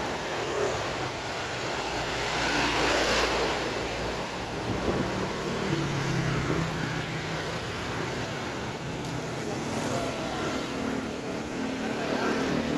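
Street traffic: vehicles passing on the road, one passing close about three seconds in, over a steady background of road noise.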